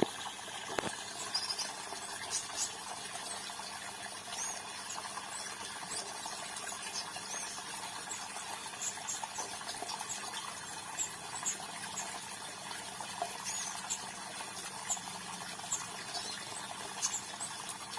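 Small aviary fountain running: water splashing and trickling steadily, with a faint steady pump hum beneath. Short high bird chirps come and go throughout.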